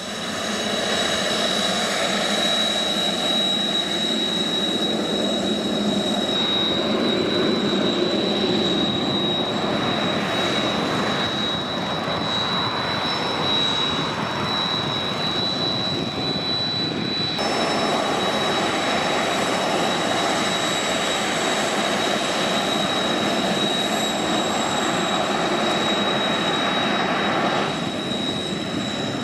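Kawasaki T-4 jet trainers' twin turbofan engines running, a steady jet noise with a high, constant whine. The sound changes abruptly about two-thirds of the way through.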